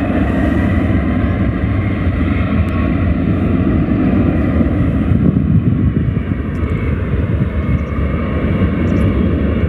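Boeing 737 twin jet engines running at takeoff thrust as the airliner begins its takeoff roll: a loud, steady jet noise heavy in the lows with a faint whine above it.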